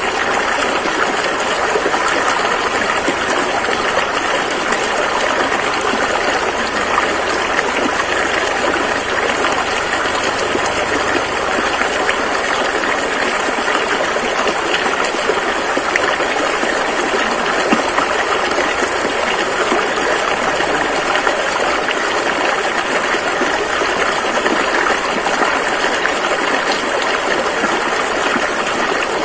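A rushing river flowing: a steady, dense rush of water that does not change.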